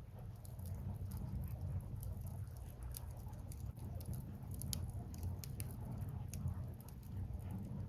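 Wood fire burning: scattered sharp crackles and pops from the burning wood over a steady low rumble.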